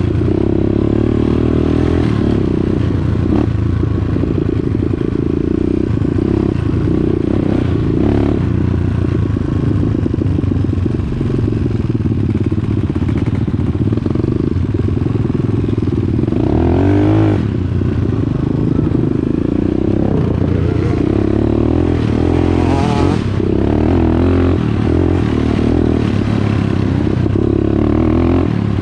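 Dirt bike engine running under way on a trail, its revs rising and falling a couple of times around the middle.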